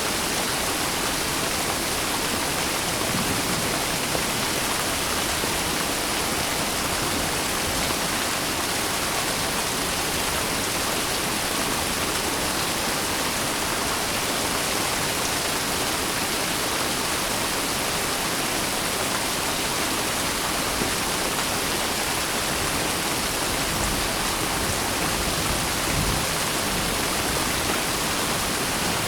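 Steady, dense rainfall: an even hiss of rain with no distinct drops or thunder standing out.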